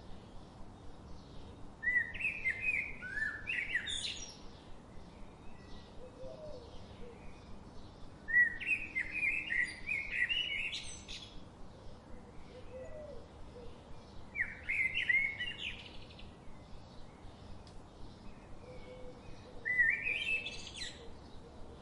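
A songbird singing the same short phrase four times, about every six seconds: a quick jumble of notes that ends in a high rising sweep. Faint chirps from other birds and a soft outdoor hiss sit underneath.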